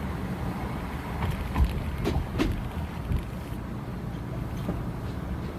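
Car driving with the windows down: a steady low road and engine rumble with wind noise. A few short thumps and rattles about one and a half to three seconds in, from bumps in the road shaking the dash.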